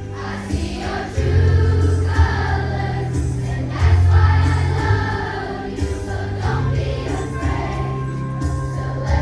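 A children's choir singing a song together over an instrumental accompaniment with a steady bass line.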